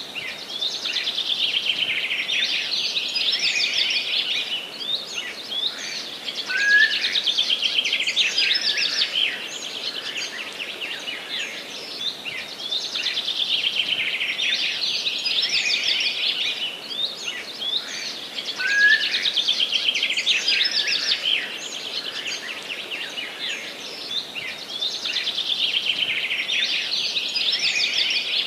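Forest songbirds singing: bouts of rapid, high chirping trills a few seconds long, one after another, over a faint steady background hush. A short rising whistle cuts through twice.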